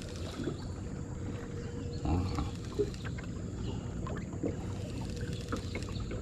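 Fast-flowing river water lapping steadily around a small fishing boat, with a few light knocks and a brief louder slosh about two seconds in.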